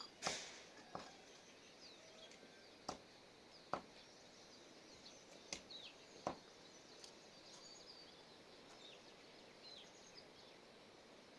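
Quiet outdoor ambience with small birds chirping: many short, falling high calls. About six sharp clicks or knocks fall in the first six seconds, the loudest just after the start.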